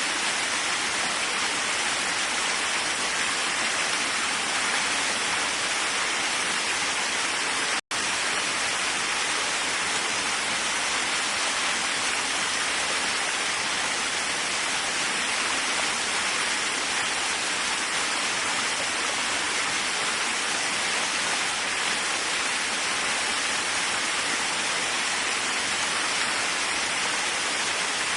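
Waterfall rushing steadily, an even hiss of falling water, cut off for an instant about eight seconds in.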